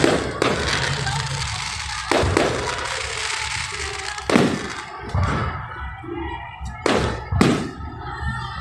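Fireworks exploding: about five sharp bangs, each with a trailing echo, over crackling in the first half. Music plays in the background, clearer in the second half.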